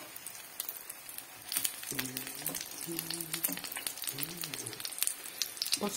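Zucchini fritters frying in hot oil in a pan: a steady sizzle with frequent small pops and spits of oil.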